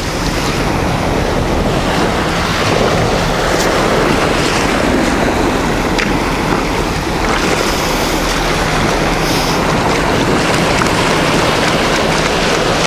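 Waves breaking on the shore and wind buffeting the microphone, a steady rush of noise with a few faint clicks.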